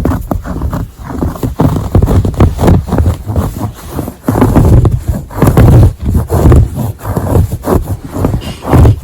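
Close-miked scratching on textile, in quick, irregular strokes that swell and fade every fraction of a second.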